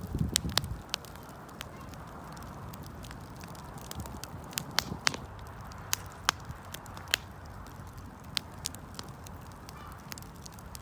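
Wood campfire crackling, with irregular sharp pops over a steady hiss of burning, and a brief low rumble at the start.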